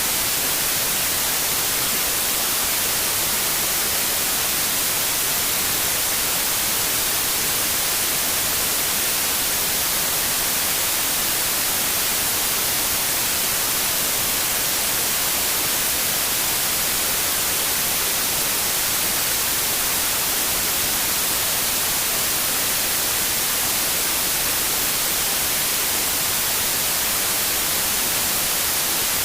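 Steady white noise: an even, unbroken hiss, strongest in the highs, with no change or events.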